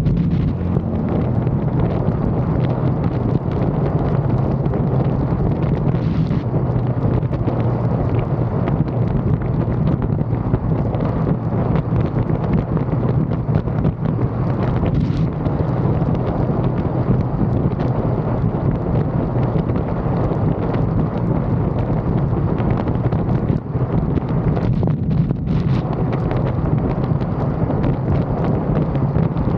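Motorcycle riding at a steady speed: a continuous engine and road drone, heavily overlaid with wind buffeting the microphone.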